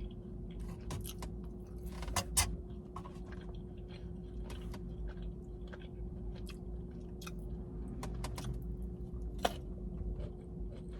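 A person chewing food close to the microphone, with scattered sharp clicks and smacks of the mouth and a few louder crunches.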